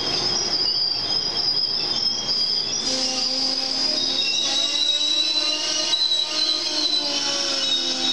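Amtrak passenger cars rolling past slowly, their steel wheels and brakes squealing in several steady high tones that shift in pitch about halfway through, as the train slows to stop at the station.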